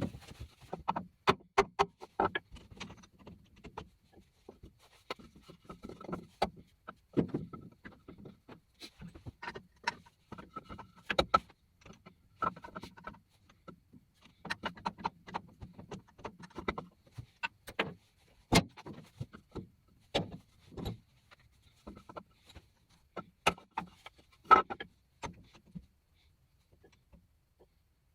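Irregular metallic clanks, knocks and clicks of metal parts and tools being handled, a few ringing briefly; they stop about two seconds before the end.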